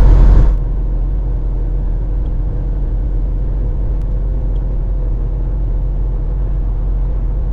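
Steady low drone of engine and road noise inside a moving truck's cab. It drops in level about half a second in and then holds even.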